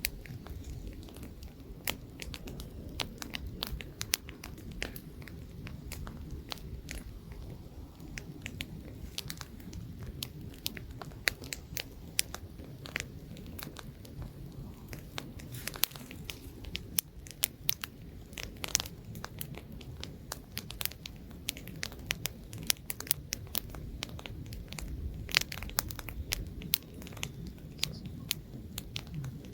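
Wood campfire crackling, with irregular sharp pops and snaps over a low, steady rush.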